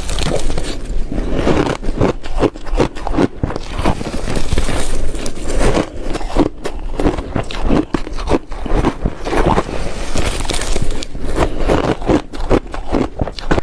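Ice being bitten and chewed, a loud, irregular run of cracking crunches one after another.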